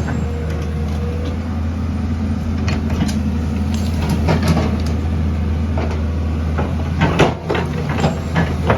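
Heavy construction machine's diesel engine running steadily, with scattered knocks and clanks that come thicker after about seven seconds.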